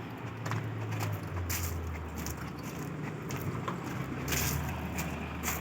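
Diesel engine of a 2010 Eicher 11.12 cargo truck idling with a steady low hum, over scattered light clicks and rattles.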